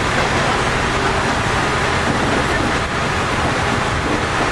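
Diesel railcar running at steady speed through a tunnel, heard from the cab: an unbroken rumble of wheels on rail and engine noise, with no clear rhythm.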